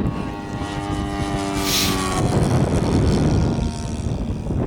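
Radio-controlled model warbird's motor and propeller whining in flight, its pitch falling slightly as it passes and fading about two seconds in. Wind buffets the microphone throughout, with a short hiss near the middle.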